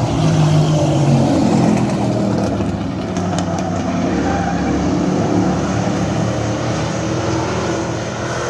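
Several racing truck engines running at speed together, their pitches rising and falling as they lap the track.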